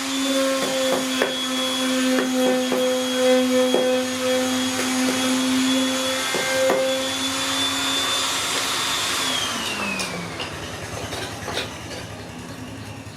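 Electric power tool motor running at a steady whine, with scattered knocks and clicks from the work. About nine seconds in it is switched off and winds down, its pitch falling away.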